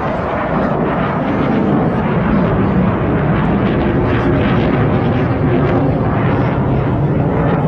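Fixed-wing aircraft flying past, a loud steady rushing engine noise that grows louder about a second in and holds.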